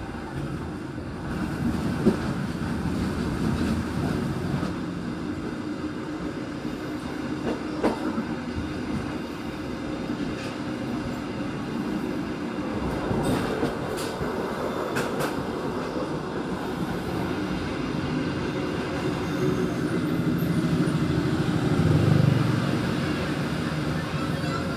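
Local passenger train running, heard from its rear coach: a steady rumble of wheels on rail with a few sharp clacks over joints and points. The rumble swells louder near the end.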